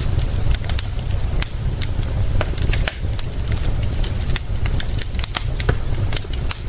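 Wood fire crackling, with frequent irregular sharp pops and snaps over a steady low rumble and a faint hiss.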